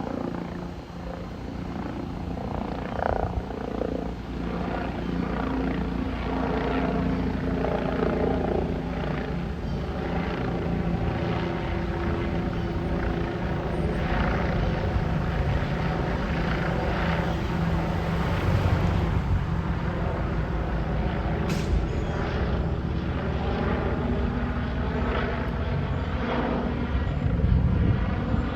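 An aircraft flying over, a steady engine drone whose tones slowly fall in pitch about two-thirds of the way through as it passes.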